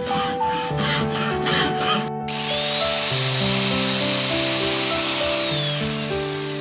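Soft piano music with sound effects of work layered over it: about five scratchy rubbing strokes in the first two seconds, then a small motor whirring up, running steadily and winding down near the end.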